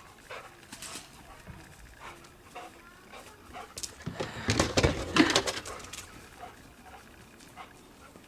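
A dog whining and yelping while chasing a bird, loudest in a burst about four seconds in, with scattered short rustles and clicks around it.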